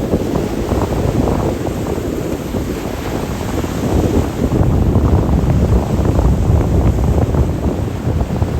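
Strong wind buffeting the microphone as a heavy low rumble, over the wash of sea waves on the shore. The buffeting grows heavier about halfway through.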